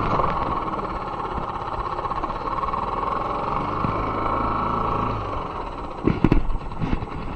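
Boat outboard motor idling just after starting, with a steady running note that drops away about five seconds in. A few short knocks follow near the end.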